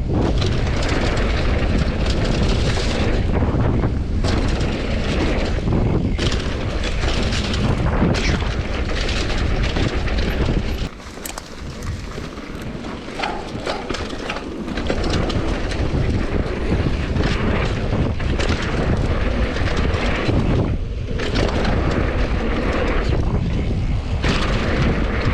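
Wind rushing over an action camera's microphone and knobby tyres rolling over dirt during a fast downhill mountain bike descent, with scattered knocks from the bike hitting bumps. The rush eases for a few seconds around the middle, then returns.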